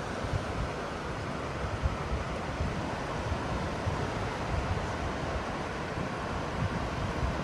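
Ocean surf washing steadily, a continuous rushing noise with a low rumble underneath.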